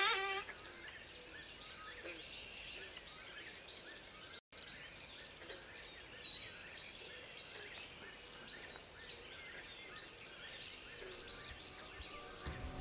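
Small birds chirping: short high chirps repeating about twice a second, with two louder calls sweeping down in pitch, one about eight seconds in and one near the end.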